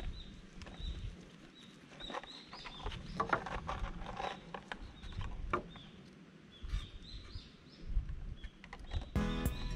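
A small bird calling over and over with short high chirps, under a scatter of light knocks and rustles in the middle. Music comes in near the end.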